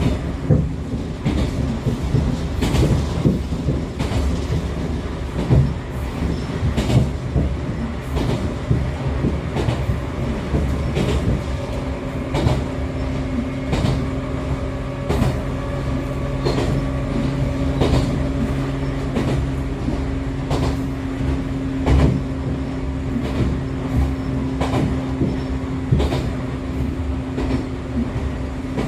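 Onboard running sound of an Echizen Railway MC6101-series railcar, the unit known for its abnormal running noise, driven by MT54 DC series-wound traction motors: a steady low rumble with wheels clicking over rail joints every second or two. The motor and gear hum settles into a steady tone about eleven seconds in.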